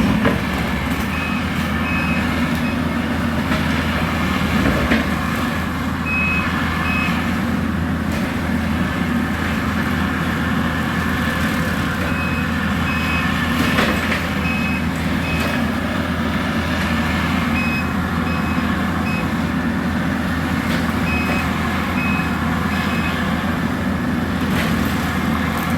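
Skid steer running steadily with its bush-hog brush-cutter attachment chewing through a brush pile, its backup alarm beeping in short runs several times as it reverses. A few sharp knocks, a little after four seconds in and again near the middle.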